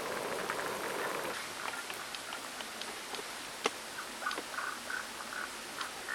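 Outdoor ambience of running stream water, with a run of short repeated calls from a small animal in the second half and one sharp snap near the middle.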